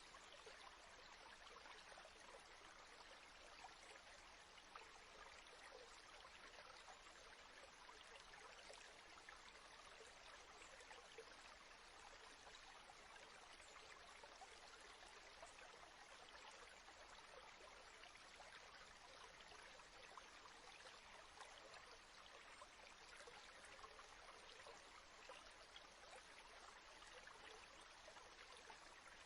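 Near silence: a faint, steady, even hiss with no distinct sounds in it.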